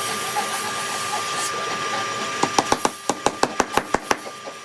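A steady, even noise with faint steady tones, then about halfway through a quick run of about a dozen sharp knocks, roughly seven a second, typical of rapid hammering or tapping during woodworking.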